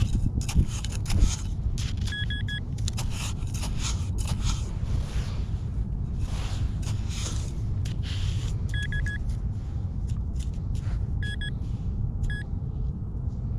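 Handheld metal-detecting pinpointer giving short bursts of rapid beeps at one fixed high pitch, four times, as it closes in on a target. Between the beeps come repeated scraping noises over a steady low rumble.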